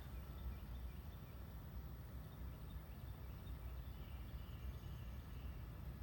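Mitsubishi mini-split heat pump outdoor unit running in its defrost cycle: a steady low hum.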